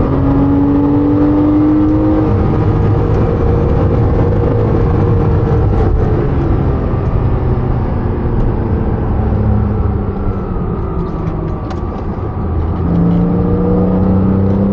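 Porsche 987.2 Cayman S's 3.4-litre flat-six driven hard, its pitch climbing under acceleration at the start and again near the end, with changing revs in between.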